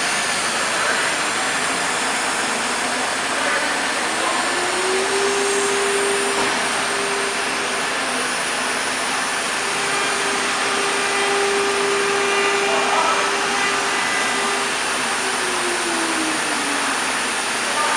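1218 ATC CNC router running: a motor whine rises in pitch a few seconds in, holds steady for about ten seconds, then winds back down, over a steady rushing noise.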